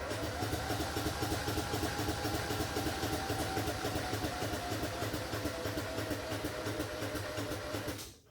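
Electric starter cranking an engine that does not catch: a steady starter whine over quick, even compression pulses, sagging slightly in pitch near the end before stopping abruptly after about eight seconds. The battery is running down and needs a charger.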